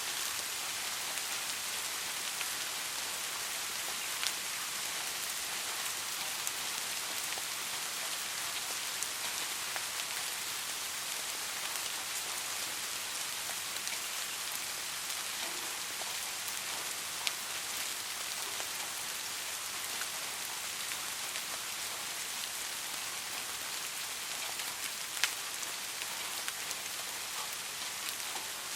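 Steady soft rain falling, an even hiss with a few louder single drops striking about 4, 17 and 25 seconds in.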